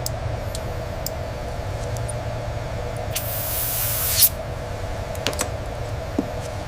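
Steady hum of factory machinery, with a short hiss of about a second roughly three seconds in and a few light clicks.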